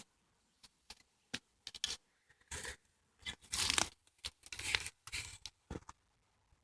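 Footsteps crunching on a woodland path, a series of irregular scuffs and crunches with short quiet gaps between them.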